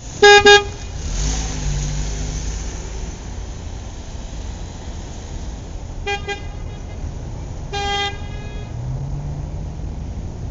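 Vehicle horn honking in short toots: two quick toots at the start, two more about six seconds in and one near eight seconds. Under them runs a steady low engine rumble that rises in pitch twice.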